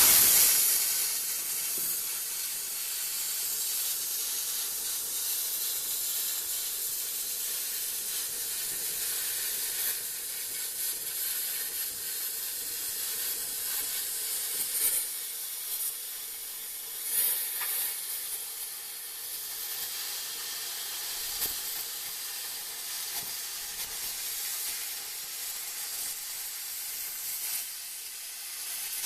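Welding arc hissing steadily with a fine crackle as replacement trunk-extension sheet metal is welded into the car body, with a few brief louder spells.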